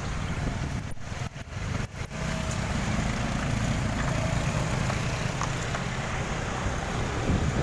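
Steady low engine and road rumble of a vehicle on the move, with a few brief dropouts between one and two seconds in.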